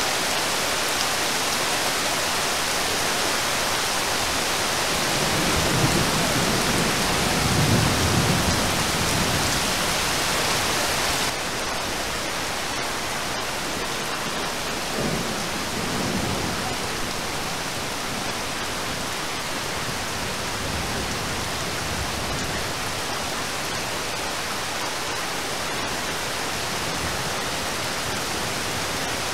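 Steady rain hissing, with low rumbles of distant thunder about six seconds in and again around fifteen seconds. About eleven seconds in, the hiss abruptly turns softer and duller.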